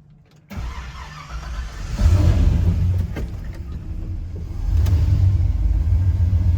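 A 1979 Ford truck's engine starting up about half a second in and catching with a jump in level around two seconds in, then running, louder again from about five seconds in.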